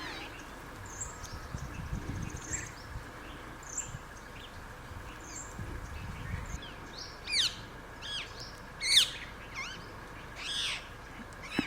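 Rose-ringed parakeet giving sharp, screechy calls: three loud ones in the second half, over faint, high, repeated chirping from other small birds.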